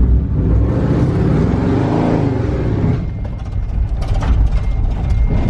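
A motor vehicle engine revs up and back down over about two seconds, over a steady low rumble.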